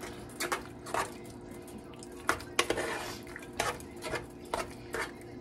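A utensil stirring food in a cooking pan, knocking and scraping against the pan in a dozen or so irregular short clicks.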